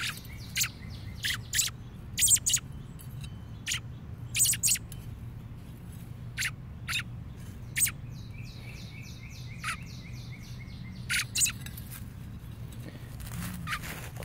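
Birds chirping: short, sharp chirps at irregular intervals. A fainter, repeated trill of another bird comes twice in the background, over a low steady hum.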